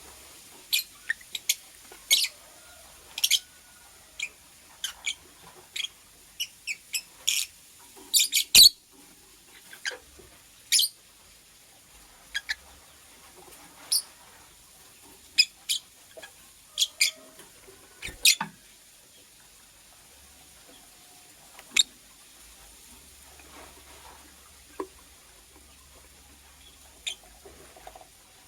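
Lovebird giving short, sharp high chirps, many in quick succession at first and fewer, more spaced out, after about two-thirds of the way through.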